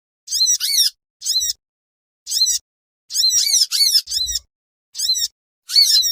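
A small songbird's harsh, scratchy call notes, about ten in all, some single and some in quick runs of two to four, with short silent gaps between. This is a recorded lure call (pikat) played to attract small birds.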